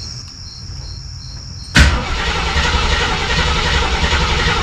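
Starter cranking the AMC 360 V8 of a 1976 AMC Gremlin, cutting in suddenly and loudly about two seconds in and carrying on steadily. It is the first start attempt with the new exhaust, with fuel being pumped through only slowly.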